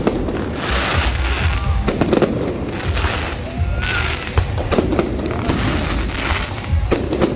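Fireworks bursting several times with crackling showers, over loud show music with a heavy bass.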